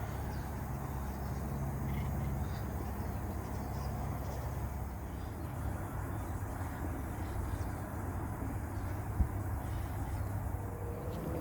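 Steady low rumble of road traffic, with a single sharp click about nine seconds in.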